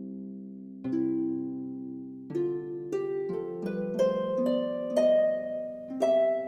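Music played on a harp: plucked notes and chords that ring on, spaced out at first, then coming quicker as a rising run of notes.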